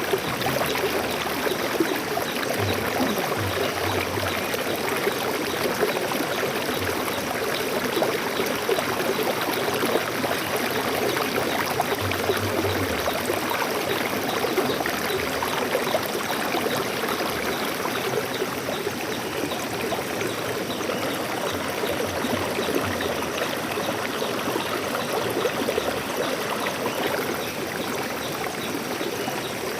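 Water flowing in a stream: a steady, even rush with a fine trickling, splashing texture.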